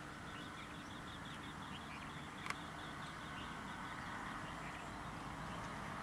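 A small bird chirping in a rapid run of short, high notes for about three seconds, over a steady low rumble. A single sharp click about halfway through.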